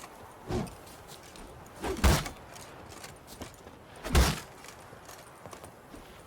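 Synthesized impact sound effects: a light hit about half a second in, then two heavy hits with a deep low end about two seconds apart, the first with a short swell leading into it.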